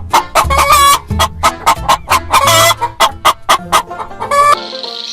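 Chickens clucking in quick, repeated short calls, one after another.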